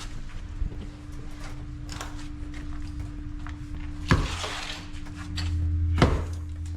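Knocks and clatter of work on old plumbing pipe being torn out, with two sharp knocks about four and six seconds in, a short scrape after the first, and a steady hum underneath.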